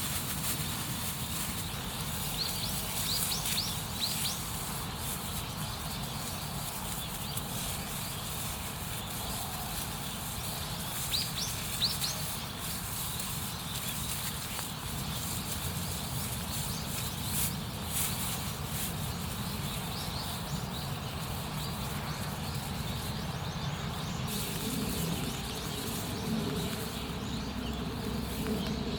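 Steady outdoor background rumble and hiss, with small birds giving brief high chirps in a few short clusters: about three seconds in, around eleven seconds and near twenty seconds. Scattered sharp clicks are heard as well.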